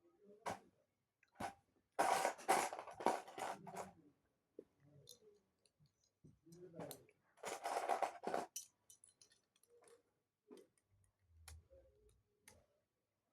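Plastic Lego pieces being handled: two bursts of clattering and clicking, with a few scattered clicks in between.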